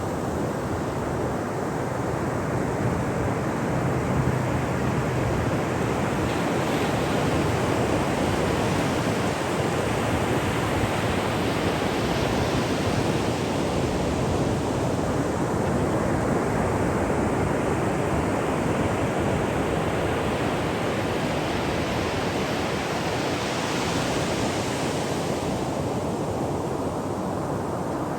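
Ocean waves breaking on a shore: a continuous wash of surf whose hiss swells twice as waves break and run up the beach.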